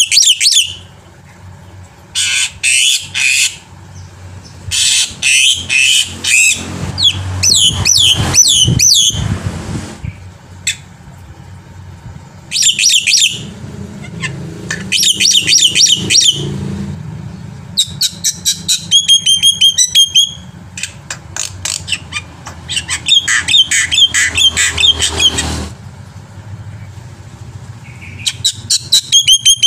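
Black-winged myna (jalak putih) singing in loud bouts of rapid chattering clicks and whistled chirps, each phrase a second or two long and separated by short pauses. A low hum runs underneath the middle stretch of the song.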